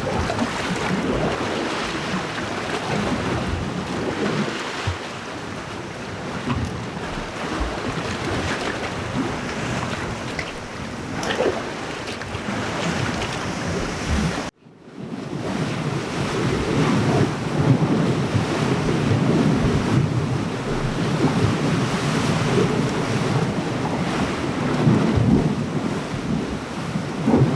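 Sea surf washing against a rocky shoreline, a steady rushing with wind buffeting the microphone. The sound cuts out abruptly for a moment about halfway through, then resumes.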